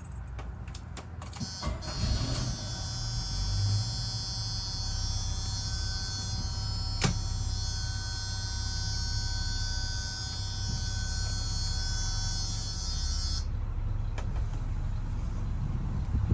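1976 Chevrolet Blazer's engine idling steadily. About two seconds in, a small electric motor starts a steady high whine; it runs for about eleven seconds, with a sharp click midway, then stops.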